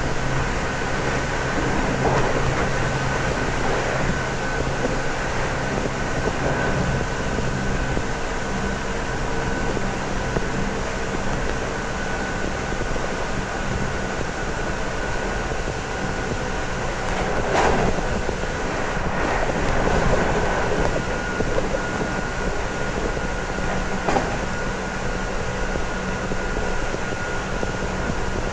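JR Kyushu 811 series electric train running at steady speed, heard from inside the car: the constant rolling noise carries a steady whine from its external-fan traction motors. A few sharp knocks from the track stand out, the loudest about 17 seconds in.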